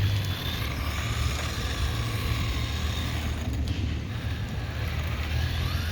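SG-1603 1/16-scale RC drift truck's brushed electric motor whining, its pitch rising and falling with the throttle, over a steady low rumble.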